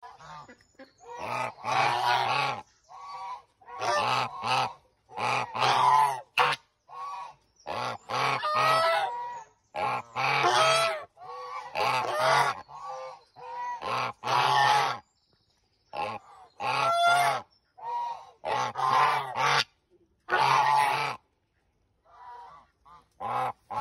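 African geese honking loudly and repeatedly, a string of calls each about a second long, some overlapping, with brief pauses between bouts.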